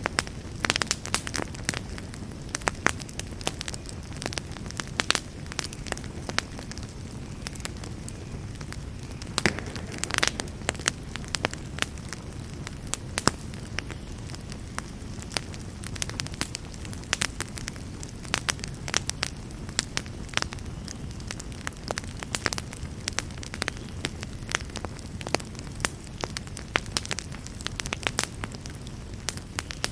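Wood campfire burning with a steady low rumble of flames and frequent sharp crackles and pops from the burning wood, several a second.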